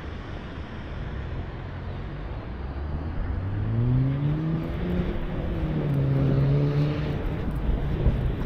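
A motor vehicle engine accelerating nearby: its pitch rises over about a second, then holds steady and fades near the end, over a low wind rumble on the microphone.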